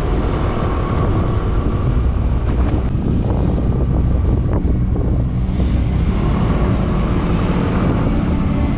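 Motorcycle riding noise on an action camera's built-in microphone: steady wind rumble over the running engine.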